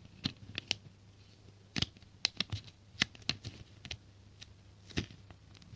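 A sheet of paper being folded in half and creased by hand: a string of short, crisp crackles and rustles.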